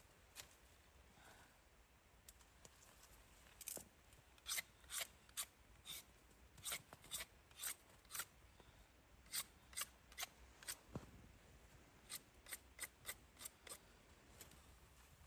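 Footsteps crunching in cold snow: short, crisp crunches about two a second, in three runs with short pauses between.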